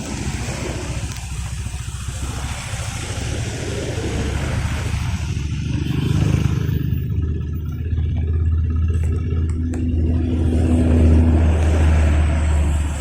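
Motor vehicle running, with a steady low engine rumble under a wide hiss of wind or road noise; about halfway through the hiss falls away and the low rumble grows stronger.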